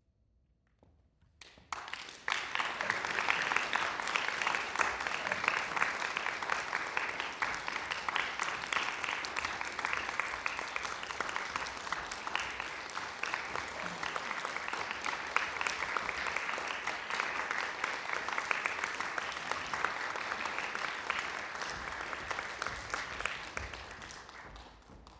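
Audience applauding: clapping starts about two seconds in, carries on steadily and dies away near the end.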